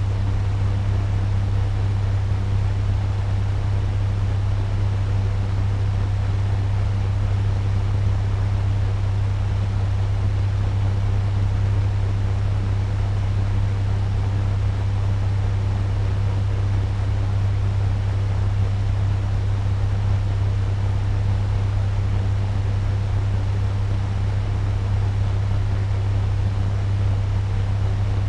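Turbo fan running steadily at medium speed: an even rush of moving air over a strong, constant low hum.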